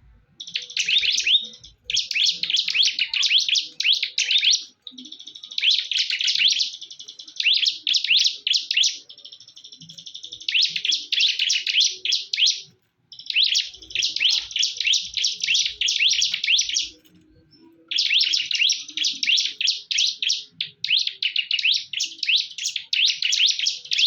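Ciblek (bar-winged prinia) songbirds singing against each other in a singing duel: phrases of rapid, high-pitched chirps one to three seconds long, separated by short pauses, some passages held as a steady high trill.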